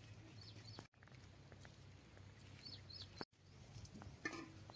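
Near silence: faint high bird chirps in short runs of two or three, about half a second in and again near three seconds in, over a low steady hum.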